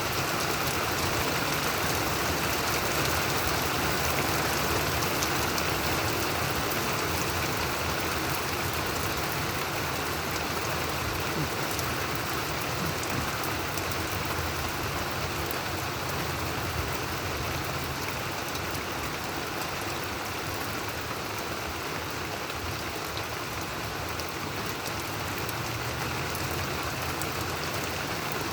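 Steady downpour of thunderstorm rain: a dense, even hiss of many drops.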